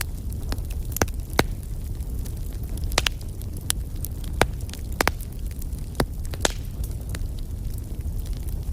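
Wood fire burning: a steady low rumble with sharp crackles and pops, about one a second, a couple of them standing out as louder snaps.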